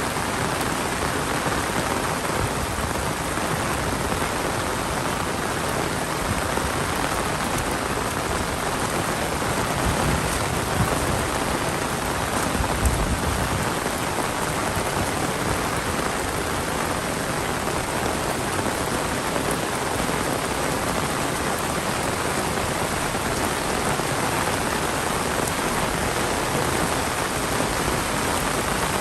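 Heavy monsoon rain falling steadily, a dense, even hiss of rain on surfaces. There are a couple of brief low thumps about halfway through.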